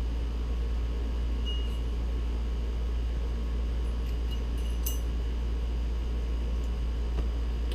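Steady low hum with a few light metallic clinks, the sharpest about five seconds in, from the differential pinion gear and its shim being handled.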